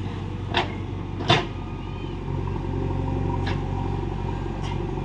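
Diesel engine of heavy earthmoving equipment running steadily, with four short sharp knocks spread through it, the second one loudest.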